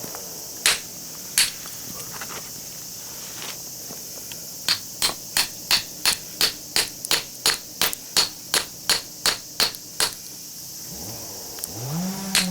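Hammer blows on the steel core of a small scrap transformer: two single strikes, a pause, then a quick run of about a dozen-plus sharp metallic strikes at roughly three a second, in an attempt to split the core apart.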